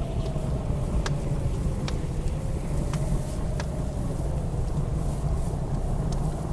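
Wood fire crackling in a fireplace with a few sharp pops, over the steady low rumble of blizzard wind and a faint, wavering wind howl.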